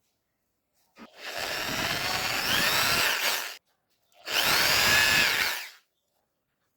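A handheld power tool running in two bursts, the first about two and a half seconds long and the second about a second and a half, its motor pitch shifting up and down as it works.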